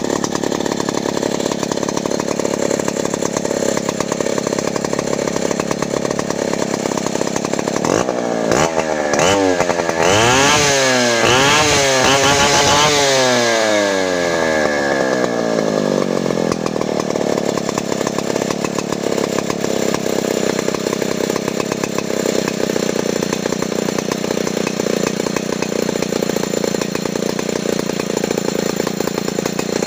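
Two-stroke chainsaw engine with a points ignition, running at idle after an ignition repair. About eight seconds in it is revved up and down several times for several seconds, then settles back to a steady idle.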